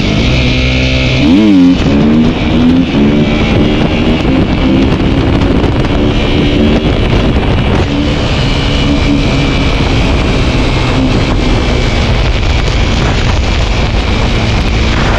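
Dirt bike engine running while riding, revving up and back down sharply about a second and a half in, then holding steadier throttle, with wind buffeting the microphone.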